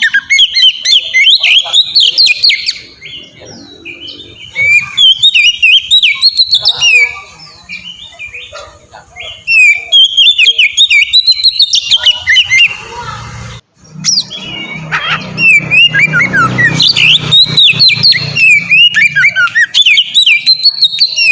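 Oriental magpie-robin (kacer) singing loudly in a fast, unbroken stream of high chirps, whistles and trills that rise and fall quickly. The song eases off for a few seconds early on, cuts out for an instant about two-thirds of the way through, and then comes back at full strength.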